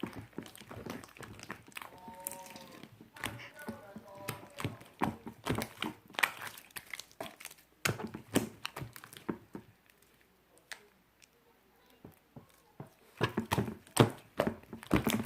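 Clear sky-blue slime being squished and pressed in the hands, making a dense run of sticky clicks and pops that go quiet for a couple of seconds past the middle and then pick up again.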